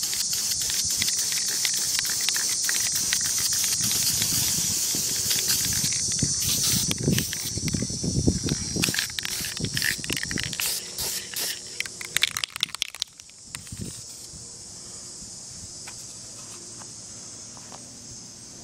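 Aerosol can of Krylon Camouflage Ultra Flat spray paint spraying in a long, steady hiss, with clicks and knocks from about six seconds in. The spray stops about 13 seconds in, leaving a fainter steady hiss.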